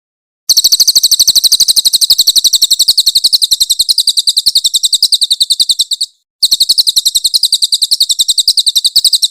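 Crested jay (cililin) giving its loud, high-pitched rattling call, about ten sharp notes a second. The call comes in two long runs with a brief break about six seconds in.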